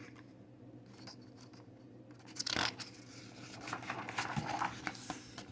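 Paper rustling as a picture book's page is turned, with one louder swish about two and a half seconds in and a few lighter rustles and ticks after it.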